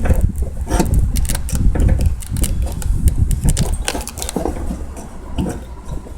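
Irregular clicks and knocks of a fuel pump assembly being handled and seated into the fuel tank opening, over a steady low rumble.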